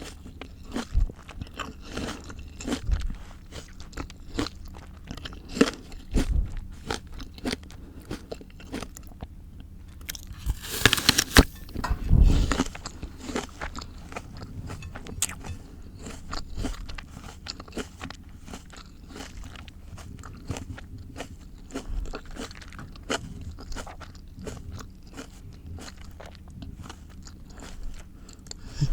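Close-miked crunchy chewing of raw fruit and vegetables: a steady run of small crisp crunches, with one loud bite about eleven seconds in.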